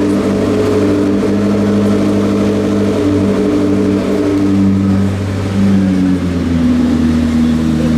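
McLaren P1's twin-turbo V8 running at idle with a steady, low note that shifts slightly about six seconds in.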